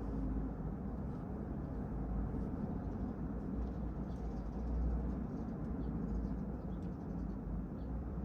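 Steady low rumble of vehicles, with faint short high chirps scattered over it.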